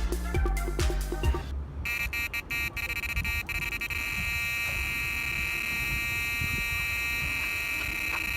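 Background music with a beat, stopping about a second and a half in. Then a carp-fishing electronic bite alarm sounds one continuous high tone, the screaming alarm of a carp run as a fish takes line.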